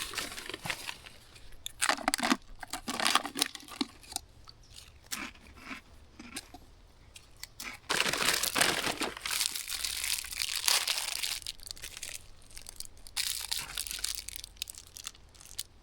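A snack bag being rummaged through by hand, crinkling and rustling in irregular bursts, with a louder stretch of crackling about halfway through.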